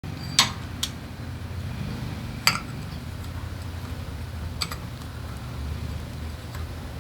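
A few sharp metallic clicks and clinks from hand tools and small engine parts being handled, spaced irregularly over several seconds, with a steady low hum in the background.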